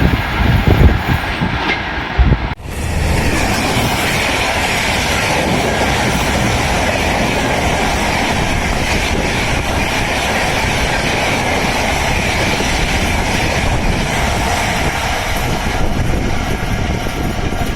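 Express train passing at speed on an electrified main line: a steady, loud rush of wheel and rail noise. There is an abrupt break about two and a half seconds in, where the recording cuts from uneven rumbling to the even rush.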